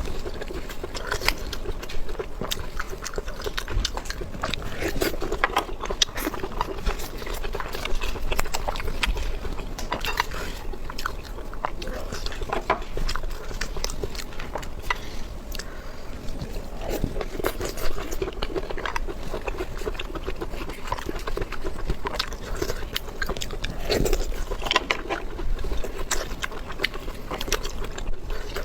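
Close-miked eating sounds: a person biting and chewing food with a steady run of irregular wet clicks and crunches.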